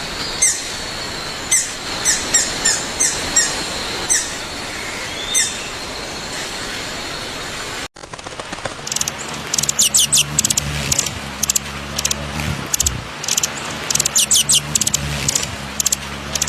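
Wild birds chirping in short, falling notes, singly and in quick runs, over a steady high tone. After a cut about eight seconds in, rapid high-pitched chirping comes in bursts over a steady low hum.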